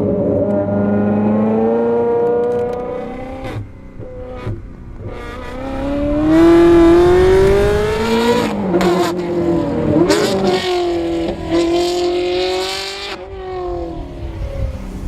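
Ferrari 360 Modena's 3.6-litre V8 through a Capristo exhaust, accelerating hard through the gears. The pitch climbs and drops sharply at each shift, four or so times, and is loudest about six to eight seconds in.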